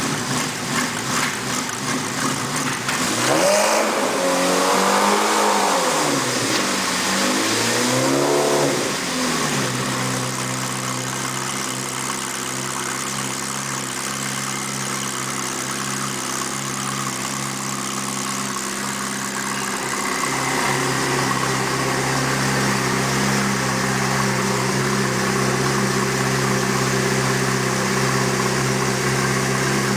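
Ferrari F430 GT3's V8 race engine revved up and down twice, then settling into a steady idle that steps up slightly about two-thirds of the way through.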